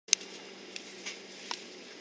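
Steady low hum of an airliner cabin with a few sharp clicks, the loudest right at the start.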